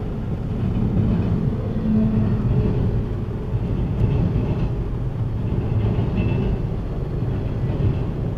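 Intermodal freight train of double-stack container well cars rolling past: a steady rumble of wheels on rail, heard from inside a car.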